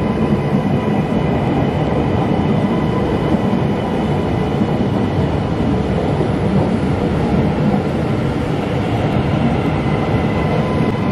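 TransPennine Express Class 397 electric multiple unit pulling out slowly past the platform end: a steady rumble of wheels on the rails with steady high electrical tones over it.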